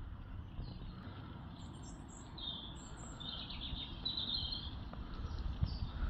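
Birds chirping and singing in short phrases over a low, steady rumble of outdoor background noise.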